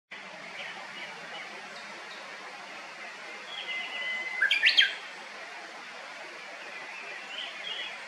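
Japanese bush warbler singing its hō-hokekyo song: a long steady whistle, then a quick sharp flourish that leaps up and down in pitch, about four and a half seconds in. Fainter bird calls sound before and after it.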